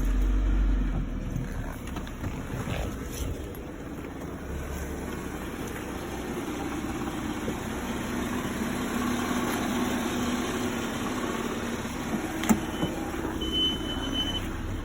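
Volkswagen Passat B5's 1.8T (AEB) turbocharged inline-four idling just after a cold start, a little louder in the first second or so before settling; the owner hears a knock from it that he cannot trace. A sharp click about twelve seconds in and a short high beep soon after.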